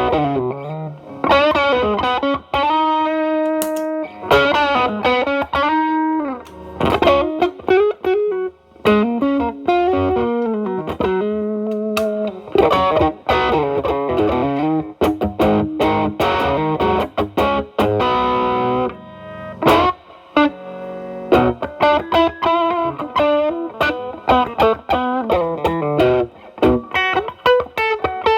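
Telecaster electric guitar through an E.W.S. Brute Drive (BD-1) distortion pedal with its boost engaged, into a Marshall Valvestate amp's drive channel. It plays distorted single-note lead lines: picked runs, string bends and held notes with vibrato, broken by brief gaps.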